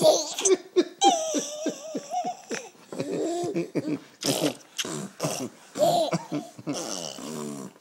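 A ten-month-old baby laughing hard in quick, repeated high-pitched bursts, with short breathy noises between the laughs.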